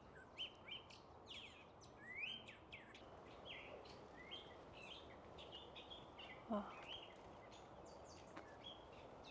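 Wild birds chirping and calling: a run of short chirps and quick gliding notes, faint over a steady outdoor hiss.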